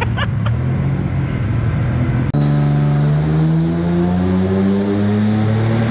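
Turbocharged Subaru EG33 flat-six on a dyno, running, then after an abrupt break about two seconds in making a hard pull: the engine pitch climbs steadily while a high turbo whine rises alongside it.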